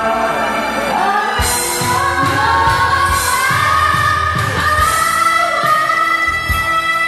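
Live pop ballad performance: a singer with band accompaniment holds long notes, the voice climbing about a second in and sustaining a high line.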